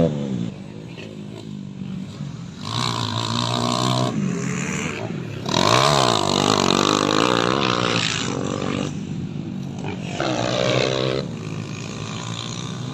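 Motocross dirt bike engines revving hard and passing, in several loud spells with the pitch rising and falling.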